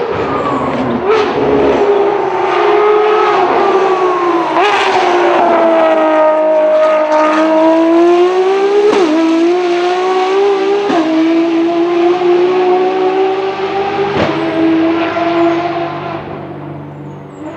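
Ferrari racing car engine running at high revs on track, its pitch sweeping down and back up with several sharp breaks, likely gear changes, then fading near the end.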